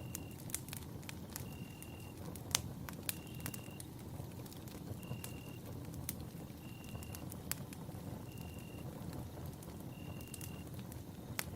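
Campfire burning, with a steady low hiss and irregular sharp crackles and pops; one pop about a quarter of the way in and one near the end stand out. A short high note repeats about every one and a half seconds behind it.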